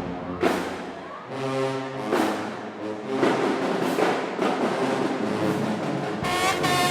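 Marching band playing: the brass section holds chords, punctuated by heavy drum hits. About six seconds in, the brass comes in brighter and fuller.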